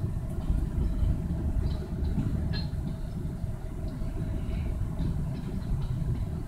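Freight train of gondola cars rolling past: a steady low rumble of steel wheels on the rails, with scattered light clicks.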